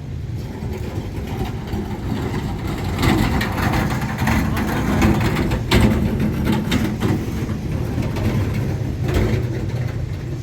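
An engine runs with a steady low rumble. Hissing noise comes in over it for a few seconds near the middle and again near the end, with a sharp click about six seconds in.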